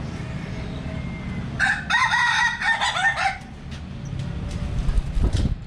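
A rooster crowing once, a drawn-out call lasting a little under two seconds, over a steady low background rumble.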